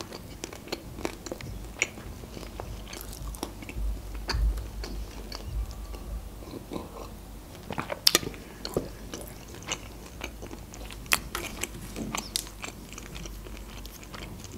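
Close-miked chewing of pizza, with irregular wet mouth clicks and crunches of crust.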